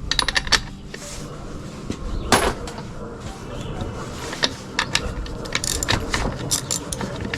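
Clicks, taps and clatter of hand tools and metal parts being worked on a string trimmer as its spark plug is taken out, with one louder knock about two and a half seconds in.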